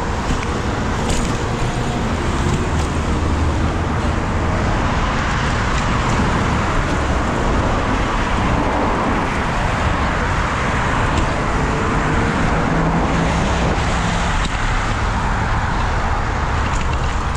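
Steady road traffic noise: the continuous rush of cars on the road, unbroken and without any single standout event.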